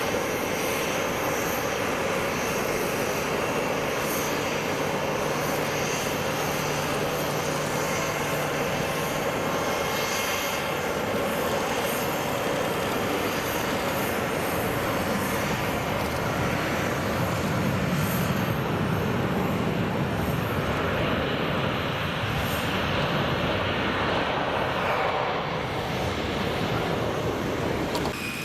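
Jet airliner engines running, a continuous steady rush of noise that swells slightly past the middle and eases a little near the end.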